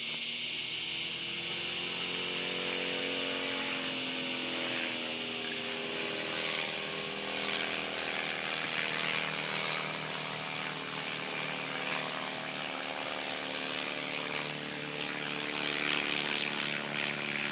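Propeller plane's engine droning overhead during aerobatics, its pitch slowly rising and falling as the plane turns and changes speed, growing a little louder near the end.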